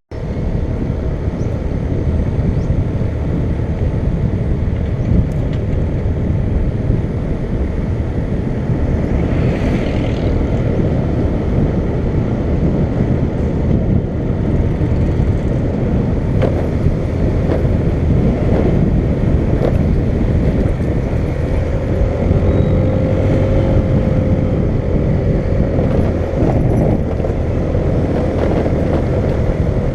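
Vehicle travelling along a road: a steady low rumble of engine and road noise, with a faint steady hum joining about two-thirds of the way through.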